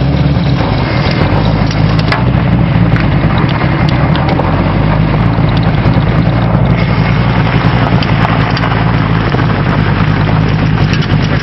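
A vehicle engine running steadily at a constant speed, loud and unvarying.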